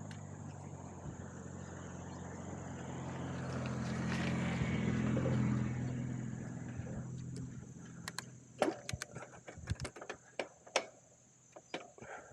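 A car passes, its engine and tyre noise swelling to a peak about halfway through and then fading away. Several sharp clicks and knocks follow near the end.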